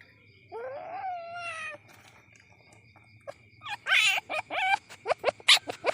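Young palm civet (musang) kitten calling: one drawn-out call that falls in pitch, a pause of about two seconds, then a quick run of short, sharp chirping calls.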